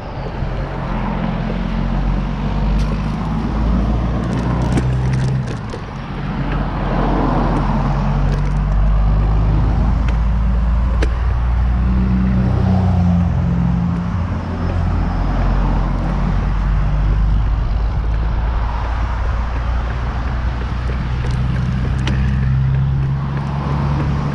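Steady low rumble of wind and road noise while riding a bicycle, with a brief lull about six seconds in.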